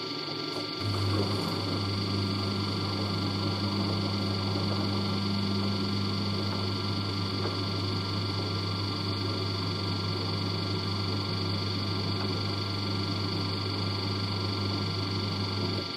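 LG DirectDrive F1496AD washer dryer running its drying cycle. A steady low hum starts about a second in, holds evenly and stops near the end.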